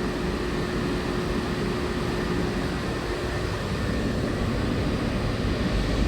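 Steady cabin noise of a Walt Disney World monorail running along its beam: a low rumble with ventilation hiss and a faint hum that fades about halfway through. The deep rumble swells just at the end.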